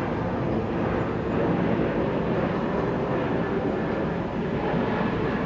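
Steady rumble and rush inside an airliner's cabin on the ground after landing, engines and air conditioning running evenly.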